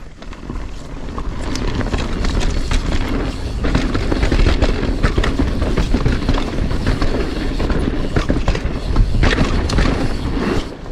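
Mountain bike being ridden fast down a dirt trail: tyres rumbling over the ground with rattling clicks from the bike, and wind on the microphone. It builds up over the first couple of seconds as speed rises.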